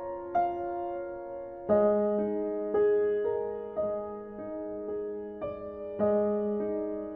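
Background piano music, a slow gentle melody of single notes and chords that each ring and fade.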